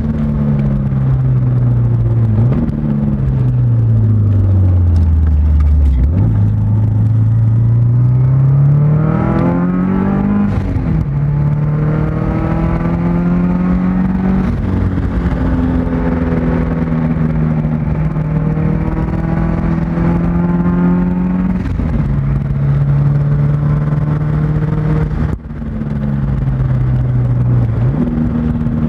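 Subaru Outback XT's turbocharged flat-four engine heard from inside the cabin under hard track driving. The engine note falls over the first few seconds, then climbs steeply, then holds fairly steady with several sudden steps in pitch as the gears change. There is a brief lift off the throttle about three-quarters of the way through.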